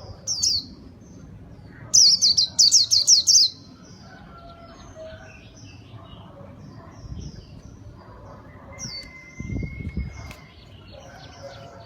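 White-eye (pleci) singing: a fast run of high, quickly falling chirps about two seconds in lasts about a second and a half, with a single chirp just before it and softer, scattered calls afterwards.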